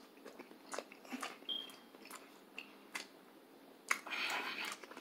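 Close-miked mouth noises of a man chewing a soft breakfast taco: faint wet clicks and small crackles, scattered and irregular. A soft breathy hiss comes about four seconds in.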